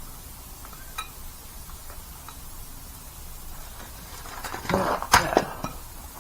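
Quiet background with a faint tick, then a short cluster of sharp knocks and clatter about five seconds in.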